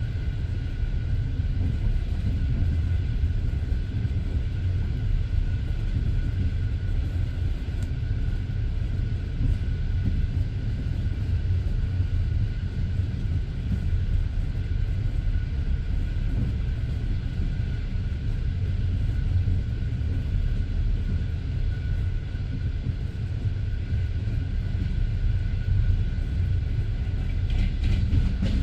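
Passenger train carriage running along the line, the wheels on the rails making a steady low rumble with a faint steady whine above it.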